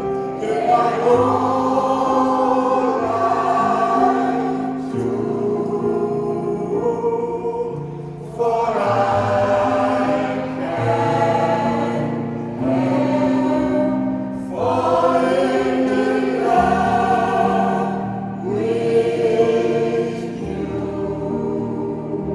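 Senior choir of older adults singing in parts, in long held phrases that swell and ease off every few seconds.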